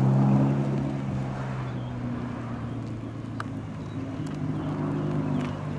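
A car engine running at low revs with a steady, even rumble that eases slightly after the first half second. Its pitch steps up a little about four seconds in, and there is a single light click near the middle.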